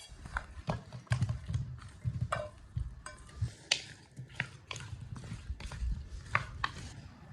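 Utensils clinking and knocking against dishes, about a dozen separate sharp taps at uneven spacing, over a low rumble.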